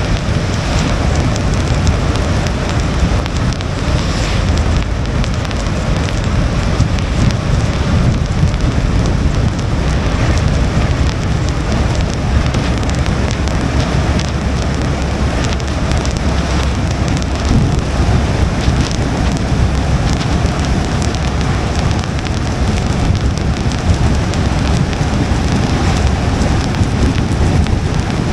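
Steady rain pattering on a car's windshield and roof, a dense crackle of drops over a steady low rumble.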